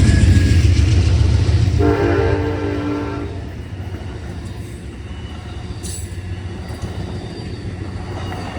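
Passing train: a low rumble that fades away, with its horn sounding a chord for over a second about two seconds in, and again at the very end.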